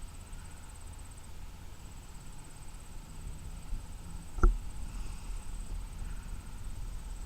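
Outdoor background noise with a steady low rumble and a faint, steady high-pitched whine, broken by a single sharp knock about four and a half seconds in.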